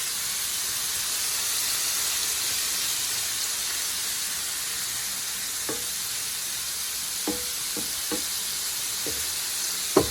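Shrimp sizzling in hot oil in a frying pan, a steady hiss. From about halfway through come a handful of light taps and clicks, the last few near the end the loudest.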